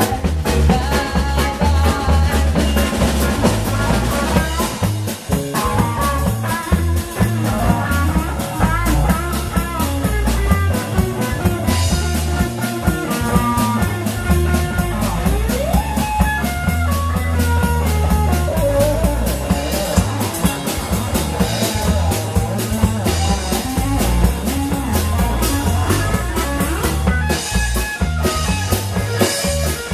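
Live blues band playing an instrumental passage: a guitar lead line over bass and drum kit, with a note bent upward about halfway through.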